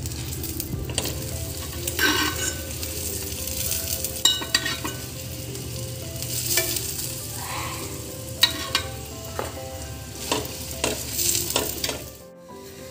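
Paneer paratha frying in ghee on a hot tawa with a steady sizzle. A metal spoon and then a perforated steel spatula scrape and press against it several times.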